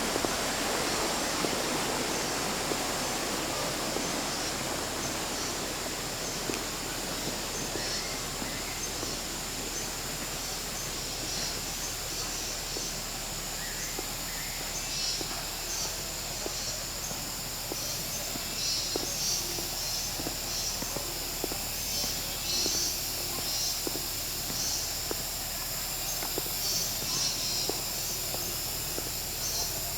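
Steady hiss of shallow water running through a forest, fullest at the start and easing off. From about halfway, high chirping comes in short repeated bursts over it.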